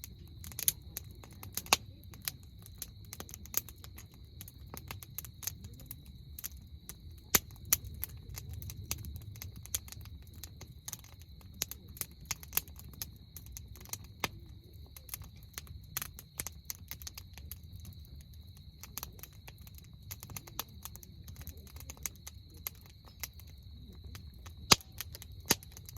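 Wood campfire crackling: irregular sharp snaps and pops, a few much louder than the rest, over a low steady rumble.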